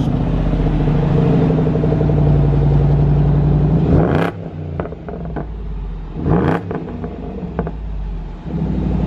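Range Rover Sport's supercharged V8 running just after start-up, heard at the exhaust tips, blipped twice: a short rev about four seconds in and another about six and a half seconds in, settling back to idle between them.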